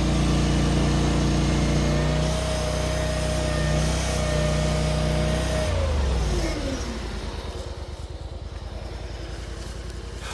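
Mini skid steer's engine running at high revs with a steady whine. About six seconds in it is throttled down: the whine falls in pitch and the engine settles to a quieter, evenly pulsing idle.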